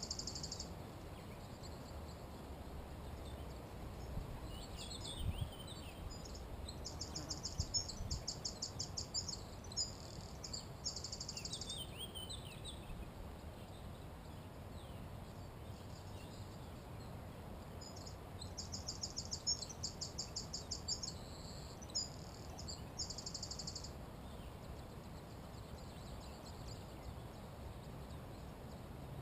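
A small songbird singing a high-pitched song of rapidly repeated notes in quick-fire trills, twice, each bout lasting about five seconds, over a steady low background noise, with other birds calling faintly.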